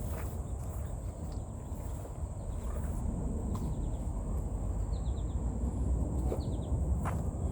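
Outdoor ambience with small birds giving short chirps now and then, including a quick run of several notes about halfway through, over a steady low rumble.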